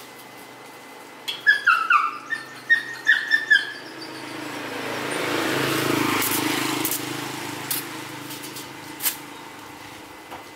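A bird calls a quick series of about eight short falling chirps. Then a vehicle passes by, its noise swelling and fading over a few seconds.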